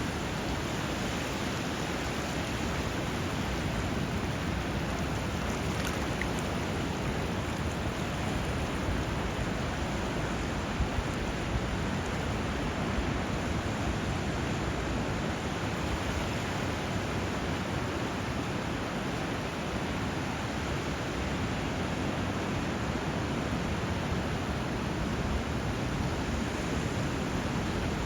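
Steady rushing of flowing water, an even, unbroken wash at a constant level.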